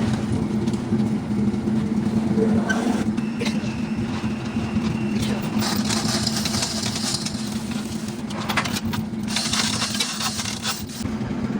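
A steady mechanical hum from a running motor, with stretches of hissing partway through and near the end.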